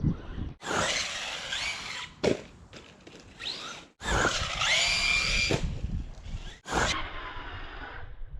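Short cut-together clips of a radio-controlled 1/8 buggy's brushless motor whining as it revs up and down, mixed with tyre and chassis noise. Each clip stops abruptly.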